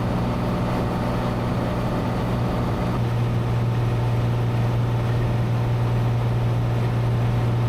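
Cessna 182 Skylane's piston engine and propeller droning steadily in flight, heard from inside the cabin. The drone's tone shifts slightly about three seconds in.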